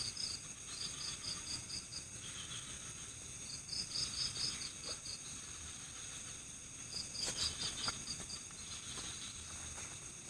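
Night forest insects: crickets chirping in short repeated trills of high, evenly spaced pulses, about five a second, over a steady high-pitched insect drone.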